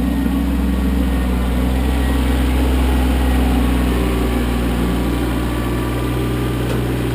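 Kioti CK25 compact tractor's three-cylinder diesel engine running steadily at an even speed.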